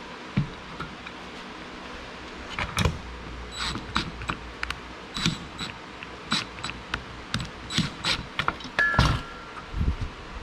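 A metal ratchet worked in a run of irregular clicks, its pawl catching on the teeth as it tightens, with a few thuds. It starts a few seconds in.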